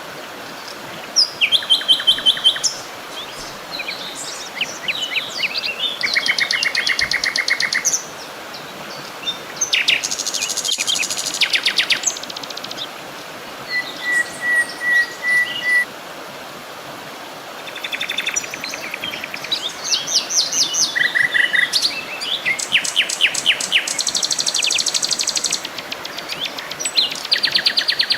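Several songbirds singing and calling at once: rapid trills and quick runs of repeated high notes, one passage of clear whistled notes about halfway through, over a steady background hiss.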